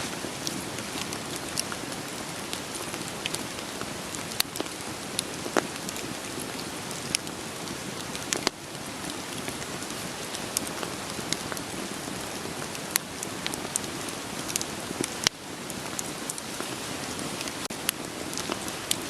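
Steady rain with a wood fire crackling: an even hiss of rain under irregular sharp pops and snaps of burning logs. The hiss drops briefly twice, about eight and fifteen seconds in.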